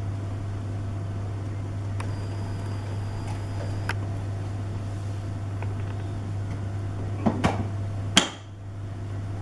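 Plastic clicks and knocks from the vacuum cleaner's dust container and bag being handled and slotted into place: a few faint clicks early on, then a quick cluster of sharper clicks about seven to eight seconds in, over a steady low background hum.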